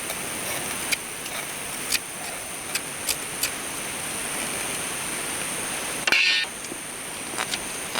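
Wood campfire crackling: irregular sharp pops over a steady hiss, with one louder, rasping burst about six seconds in.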